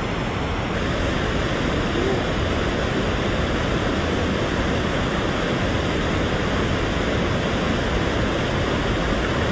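Steady rushing of whitewater river rapids, a loud even noise with no break.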